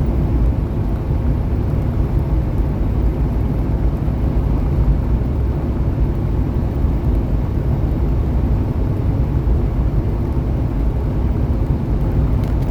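Semi truck cruising at highway speed, heard from inside the cab: a steady low drone of engine and road noise with no breaks.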